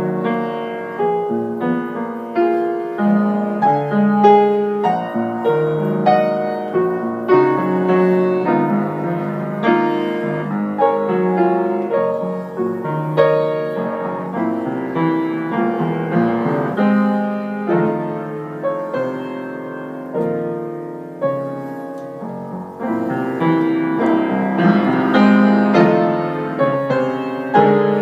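Solo piano music: a piece played in struck, decaying notes and chords, with no singing.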